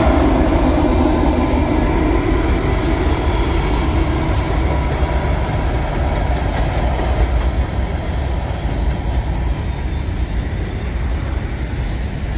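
CN diesel freight train passing. The locomotives' engine sound fades over the first few seconds as they pull away, leaving the steady rumble and wheel clatter of freight cars rolling by.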